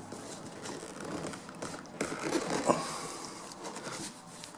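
Upholstery cover being handled and pressed down onto a glued foam motorcycle seat: irregular soft scraping, rubbing and small creaks, a little louder between two and three seconds in.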